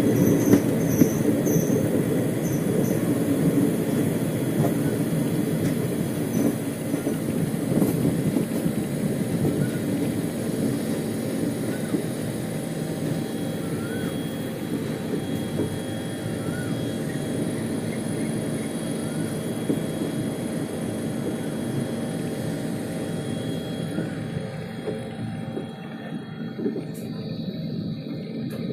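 A train running along the track: a steady rumble of wheels on rails that slowly fades, with brief high squeals in the first few seconds.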